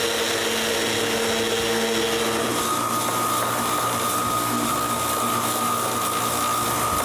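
Electric power sander running steadily on wood, a continuous machine drone with a held whine that jumps to a higher pitch a little under three seconds in.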